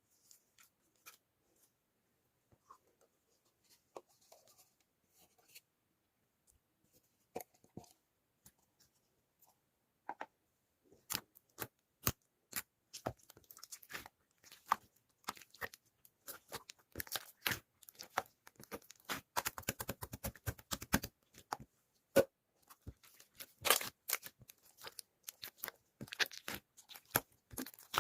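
Scattered faint clicks, then, from about ten seconds in, a dense run of crackling, tearing noises that grows louder toward the end.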